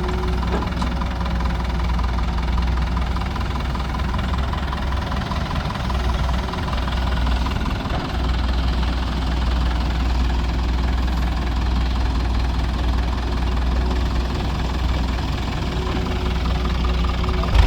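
Heavy diesel machinery running steadily with an even, low engine drone.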